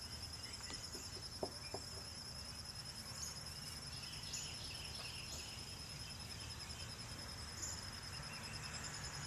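An insect, cricket-like, trilling steadily on one high pitch, with a few faint bird chirps and a couple of soft clicks.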